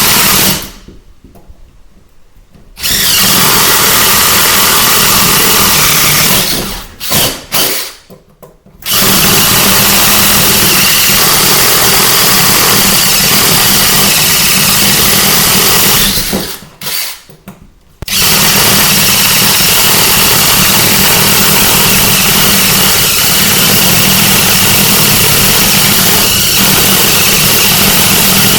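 Power tool cutting a vent hole through the floor, running at a steady hum and stopping for a second or two three times.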